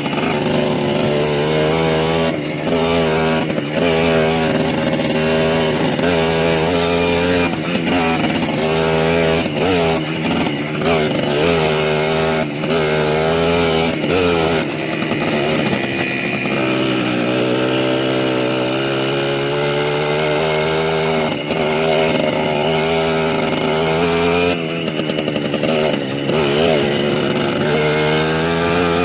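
Small moped and pit bike engines running under way, the pitch climbing and dropping again and again as the throttle is opened and closed.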